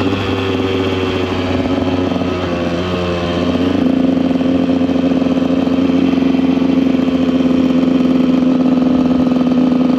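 KTM EXC 125 two-stroke single-cylinder engine running under way. Its revs climb a little about three to four seconds in, then hold steady.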